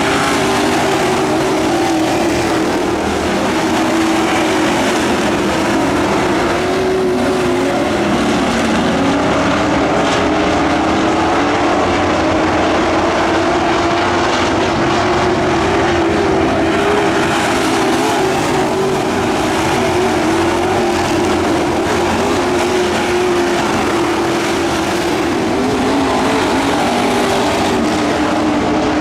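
Engines of several dirt-track race trucks running hard in a pack, their pitches overlapping and rising and falling as they lap the track.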